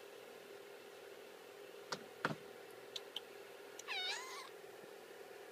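Kitten giving one short, high mew about four seconds in, its pitch dipping and rising again. A couple of faint clicks come just before it, about two seconds in.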